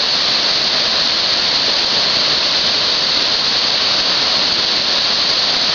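Waterfall rushing, a loud, steady roar of falling water with an even hiss.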